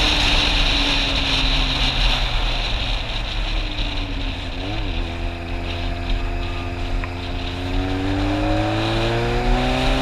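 Motorcycle engine under way, with a heavy rumble of wind beneath it. The engine note falls over the first few seconds as the bike slows, then climbs steadily as it speeds up again.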